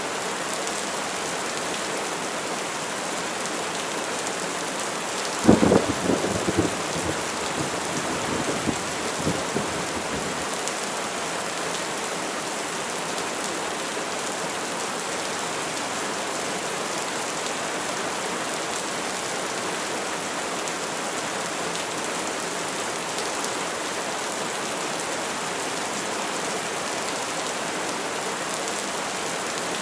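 Steady heavy rain with a thunderclap: a sudden sharp crack about five seconds in that rumbles and crackles away over the next five seconds.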